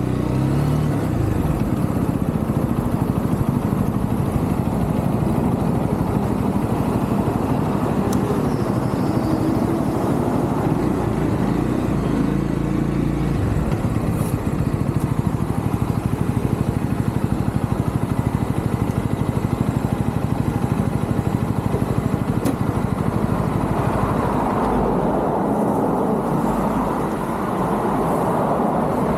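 UM Renegade Commando 125's single-cylinder engine running on the move, mixed with wind and road noise. Its pitch rises and falls in the first half, then holds steadier, with the wind and road hiss growing from about three-quarters of the way in.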